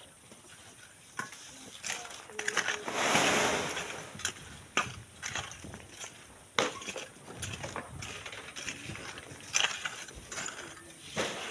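Hand digging in sand and gravel: repeated scrapes and knocks of tools biting into loose sand and stones, with one longer rush of sliding sand about three seconds in.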